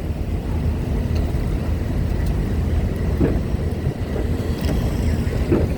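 Steady low engine rumble from trucks and cars driving onto a ferry, with two brief higher-pitched sounds about three seconds in and near the end.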